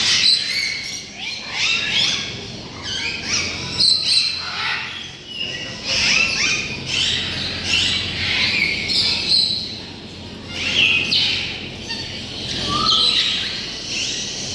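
Many birds chirping and calling at once: a dense chorus of short, overlapping chirps with occasional squawks.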